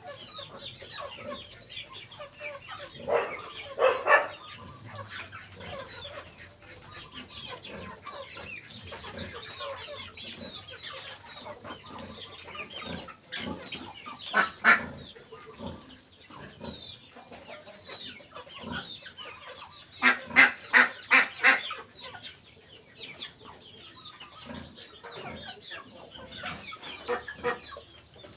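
Chickens clucking: a few loud clucks about three and four seconds in, another in the middle, and a quick run of about six clucks near the end, over constant faint chirping.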